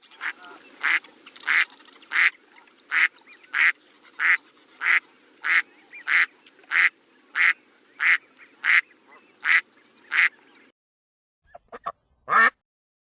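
A duck quacking in a steady series, about three quacks every two seconds, over a low steady background hum. After a short pause there are a few short clicks and one last quack near the end.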